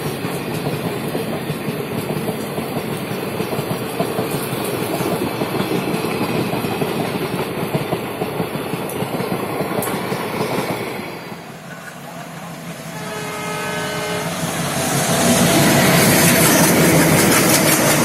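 Passenger coaches rolling past with a steady clatter of wheels over the rail joints. After a short drop, a train horn sounds for about a second and a half. Then an express hauled by twin ALCO diesel locomotives rushes past close by, much louder, with engine rumble and wheel clatter.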